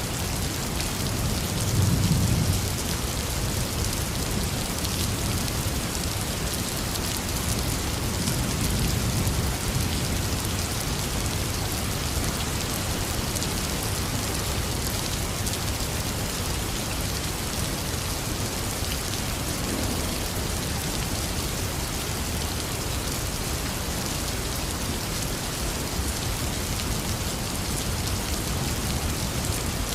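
Intense rain falling steadily, with low rolls of thunder: the loudest about two seconds in and a softer one around nine seconds in.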